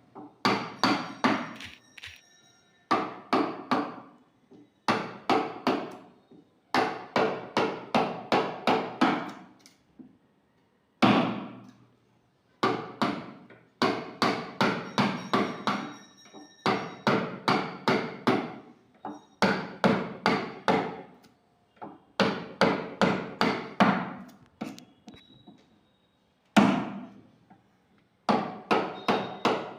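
A hammer driving a wood chisel to cut out a hinge recess, in quick runs of blows about three a second with short pauses between runs; each blow rings briefly.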